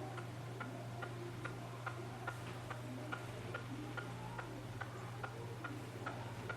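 Faint, regular ticking, a little over two ticks a second, like a clock, over a steady low electrical hum.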